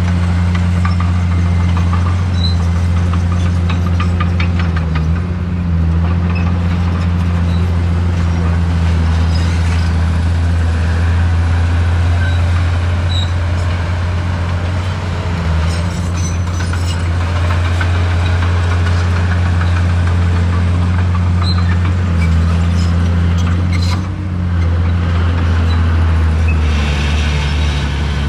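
Heavy diesel engine of earthmoving machinery running steadily with a strong low drone, its note dipping briefly a few times, with a few faint clicks over it.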